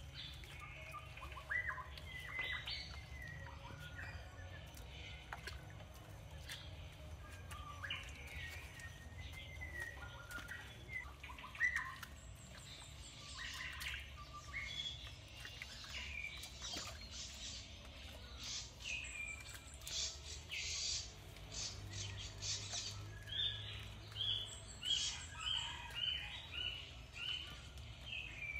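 Wild birds chirping and calling, with a run of quick repeated short notes near the end, over a low steady rumble.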